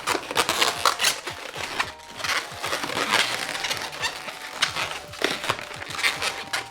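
Inflated latex 260 modelling balloons squeaking and rubbing against each other as they are twisted and a nozzle is pushed into lock twists, in an irregular run of squeaks and scrapes.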